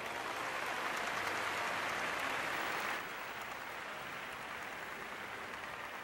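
Audience applause, a dense patter of many hands clapping, loudest for about three seconds, then dropping lower and carrying on.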